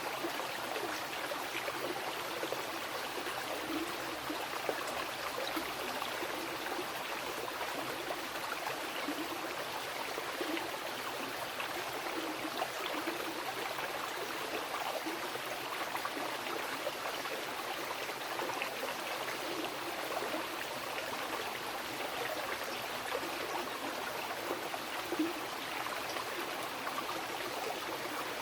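A wild river rushing steadily over its bed, an even wash of water noise flecked with small splashes.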